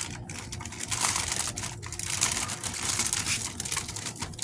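Plastic garbage bag crinkling and rustling as it is handled and fitted over a water container, in irregular small crackles.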